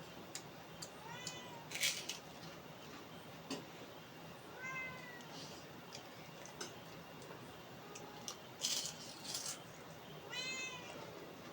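A domestic cat meowing three times, a few seconds apart, begging for food. Brief clicks and short noisy bursts come between the meows, the loudest about two seconds in.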